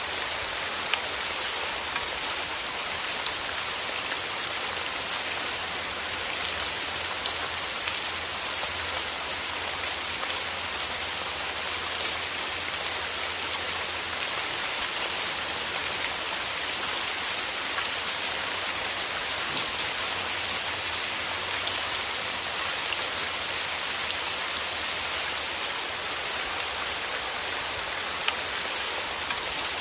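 Steady rain falling, with many small drop ticks on a hard surface, even and unbroken throughout.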